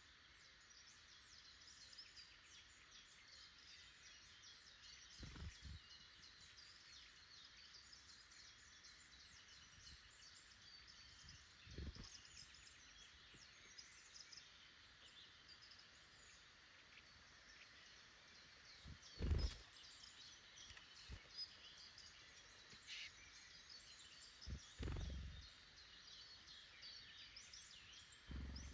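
Faint woodland birdsong: many short chirps and calls from small wild birds, with four brief low thumps, the loudest about two-thirds of the way through.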